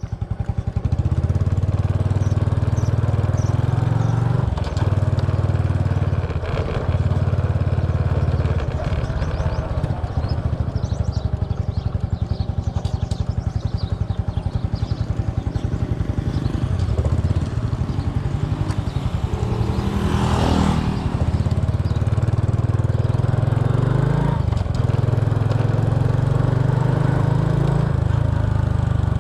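Small motorbike engine running steadily while riding, heard close from a bike-mounted action camera, with a brief rush of noise about twenty seconds in.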